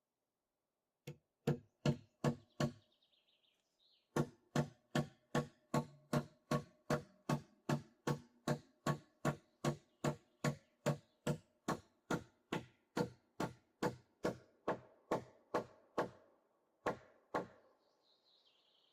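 Repeated blows of a hand tool being struck at a steady rhythm: five quick blows, a short pause, then a long even run of about two and a half blows a second, ending with two more. A bird chirps briefly during the pause and again at the end.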